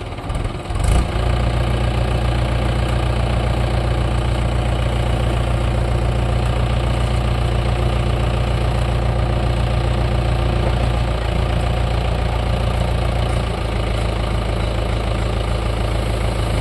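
Mahindra 575 DI tractor's four-cylinder diesel engine running steadily at a low, even pitch. It comes in abruptly about a second in.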